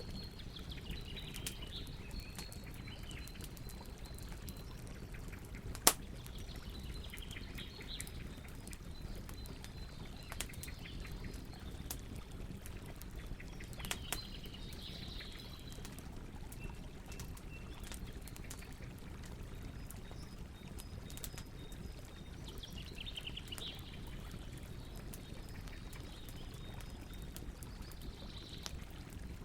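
Campfire crackling, with many small snaps and one louder pop about six seconds in over a low steady rumble of burning wood. Birds chirp and trill at intervals.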